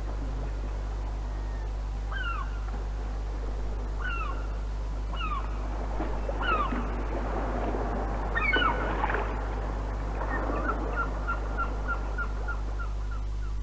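Bird calls: short downward-sliding whistles every second or two, a busier burst of calls around the middle, and near the end a quick run of about a dozen short, even notes. Underneath is a steady low hum and hiss from an old reel-to-reel tape recording.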